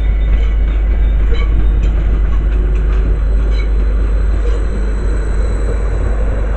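Train running through on the rails: a steady rumble with a few sharp clicks in the first few seconds.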